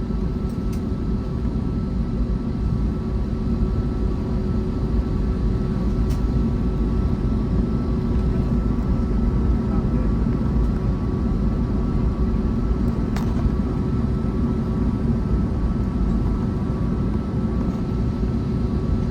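Airbus A321neo's Pratt & Whitney geared turbofan engines running steadily, heard as a low rumble and hum inside the passenger cabin, with a few faint clicks.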